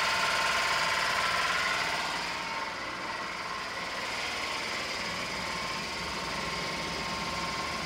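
Suzuki F6A 660 cc three-cylinder, 12-valve engine running steadily with a fast, even mechanical clatter, louder over the open engine bay and a little softer from about two seconds in.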